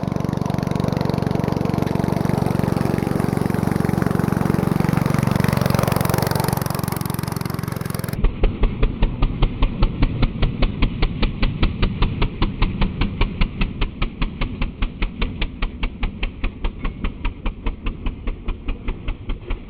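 Go-kart's stock 136 cc, 4 hp single-cylinder engine running under load as the kart climbs a hill, slowing and fading away. About eight seconds in, it cuts to a steady, rapid pulsing of about five beats a second that slowly weakens.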